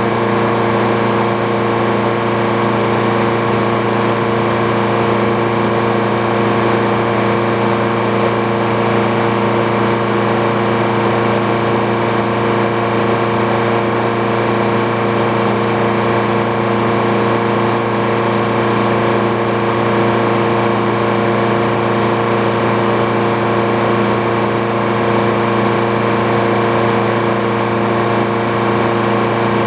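Engine running steadily at a constant speed with an even drone, the power unit of an old Frick sawmill; pitch and level stay the same throughout.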